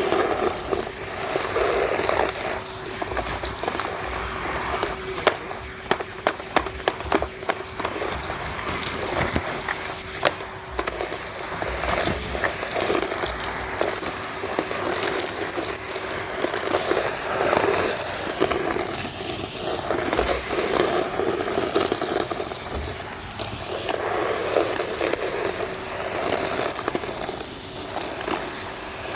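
Numatic Henry HVR200-22 vacuum cleaner running with a steady motor whine, the rush of its airflow swelling and fading as the nozzle moves. Grit and debris are sucked up the hose, with a quick run of sharp clicks and rattles about five to eight seconds in.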